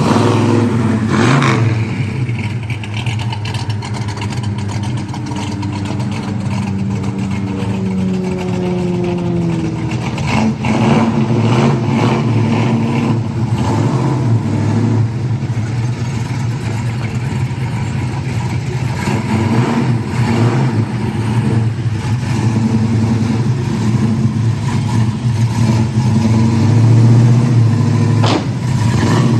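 A 1966 Ford Mustang GT fastback's 289 V8 running through its original 1966 Ford mufflers, with a mild cam. The revs shift up and down, with a stretch of changing pitch about a quarter of the way in.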